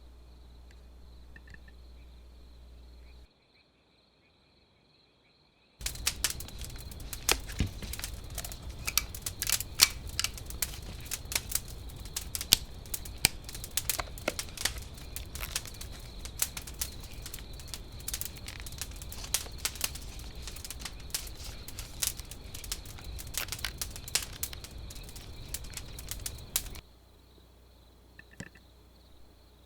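Dense, irregular crackling and popping over a steady hiss, lasting about twenty seconds. It starts and stops abruptly, with quieter outdoor ambience and a faint chirp before and after.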